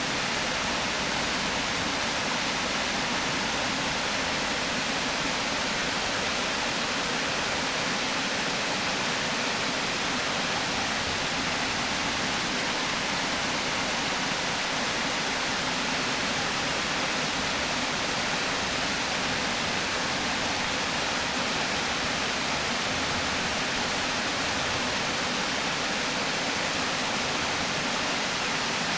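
Water pouring over a river weir, a steady, unbroken rushing.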